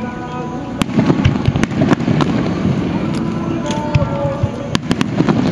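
Fireworks shells bursting in quick succession with sharp bangs and crackling, starting about a second in.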